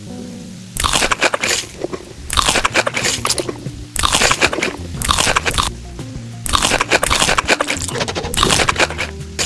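Crunchy food being bitten and chewed close to the microphone, in loud noisy bursts roughly once a second, over background music with a steady low bass line.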